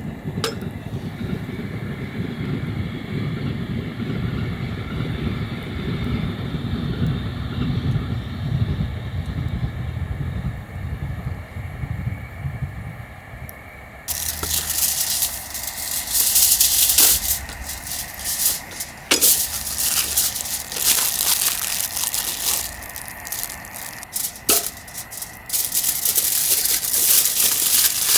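A passing train's low rumble, then about halfway through a sudden switch to a close, crackling campfire with many sharp snaps and pops.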